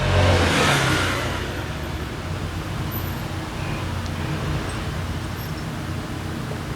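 Italjet Griffon GF125 motorcycle engine running: a brief burst of revs in the first second, then it settles into a steady idle. The engine runs again now that its carburetor, clogged by old fuel residue, has been cleaned.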